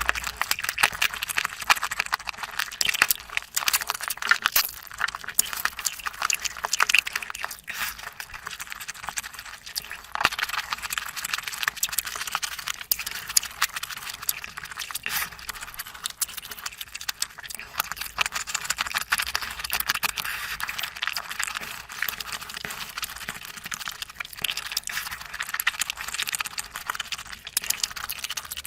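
Close-miked eating sounds: a continuous run of wet chewing, lip smacks and small mouth clicks.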